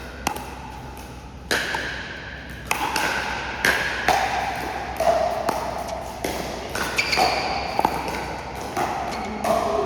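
Pickleball rally: paddles striking the plastic ball in sharp hits, roughly one a second.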